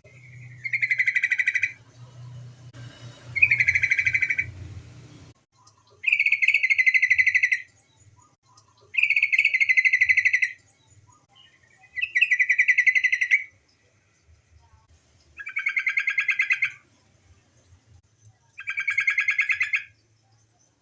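Female yellow-vented bulbul calling for a male: seven loud, rapid chattering bursts of about a second and a half each, repeated roughly every three seconds.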